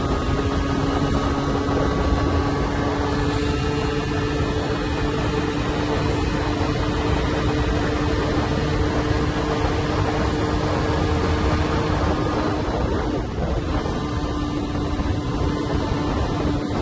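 Yamaha 125ZR two-stroke single-cylinder motorcycle engine running at a steady pitch while riding, over a steady rush of noise; the level dips briefly about thirteen seconds in.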